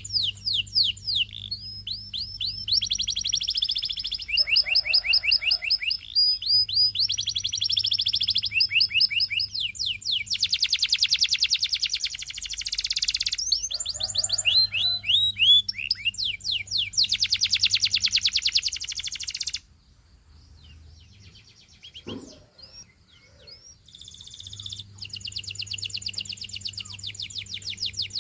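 Canary singing long, rapid high-pitched trills and rolls, strung together in phrases. About two-thirds of the way through the song breaks off to a few faint chirps, then the trilling resumes near the end.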